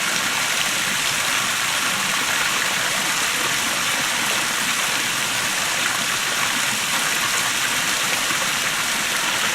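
Small waterfall: water pouring and splashing in a steady rushing hiss.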